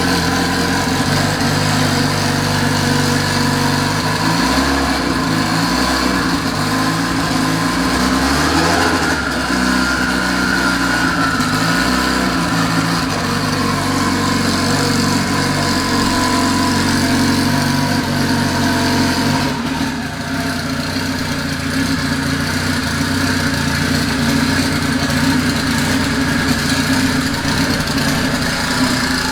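Honda Integra's B-series four-cylinder engine running steadily at about idle. Its pitch wavers for several seconds early on, and it settles a little quieter about twenty seconds in.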